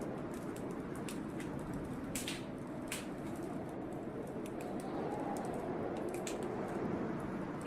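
Wood fire crackling in a fireplace, with scattered sharp pops, over the steady rush of blizzard wind, which swells about five seconds in.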